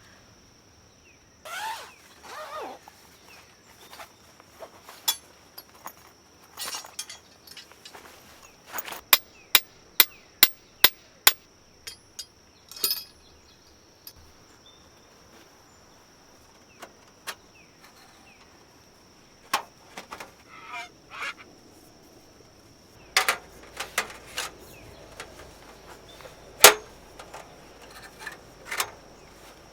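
Sharp knocks and clicks at irregular intervals, with a run of about six loud, evenly spaced strikes near the middle, over a faint steady high-pitched hum.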